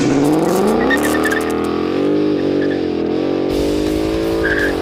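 Ford Mustang GT's 5.0 V8 revving up through its exhaust. The pitch climbs over the first second, holds high, then dips briefly near the end and picks up again. Intro music with guitar plays underneath.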